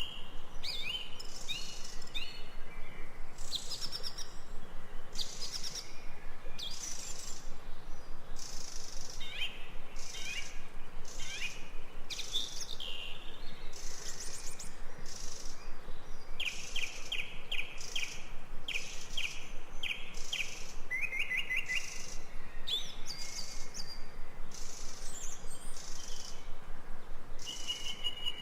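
Jungle ambience of several birds calling: overlapping chirps, whistled notes and quick trills, with a run of rapidly repeated rising notes about two-thirds of the way through, over a steady background hiss.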